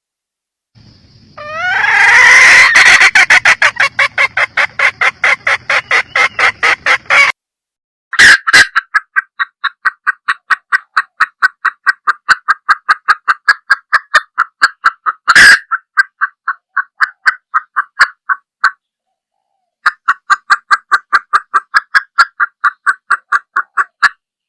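Red junglefowl hen calling: a rapid run of clucks, about five a second, in three long bouts broken by short pauses, with a few louder sharp clucks among them.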